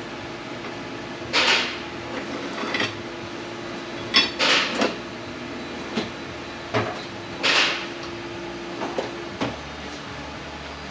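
Metal tools and transmission parts clattering and clanking as they are picked up, rummaged through and set down on a workbench, about seven knocks spread irregularly, over a steady hum that stops near the end.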